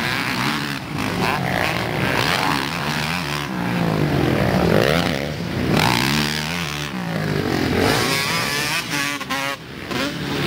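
Motocross dirt bikes running on the track, their engines revving up and down in overlapping rising and falling pitches as they accelerate and shift.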